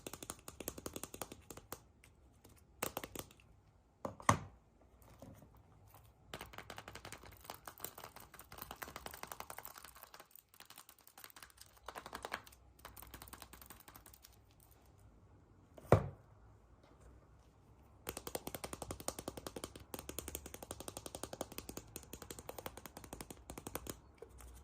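Crinkling foil and plastic egg wrappers handled in bursts of rapid crackling, with two sharp snaps, about four seconds in and about sixteen seconds in, as eggs or capsules are cracked open.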